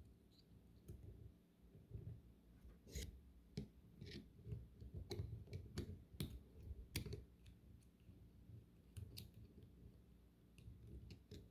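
Faint, irregular small metal clicks as a hook tool works a spring and roller into a motorcycle starter clutch, steel tapping and scraping on steel.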